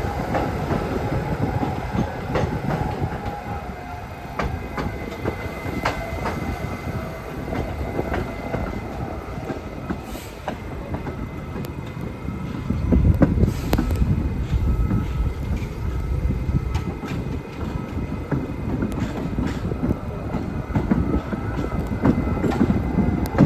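New York City subway train running on the rails: a continuous rumble with the sharp clicks of wheels over rail joints and a faint steady whine. It grows louder a little past halfway.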